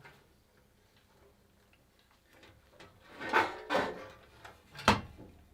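Computer parts being handled during disassembly: near silence for about two seconds, then a few scrapes and knocks of hard parts and a sharp click near the end.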